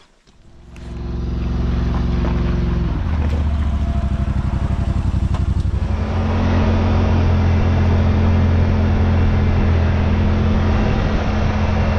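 Yamaha RMAX side-by-side's engine running as it drives off. Its note drops to a lower, steady pitch about three seconds in, and it grows louder with more road and wind noise around six seconds.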